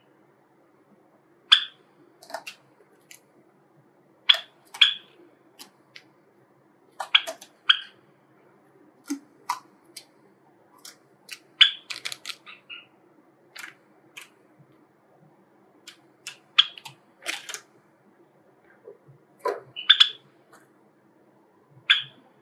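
Java sparrows giving short, sharp chip calls, about a dozen at uneven intervals, some in quick pairs.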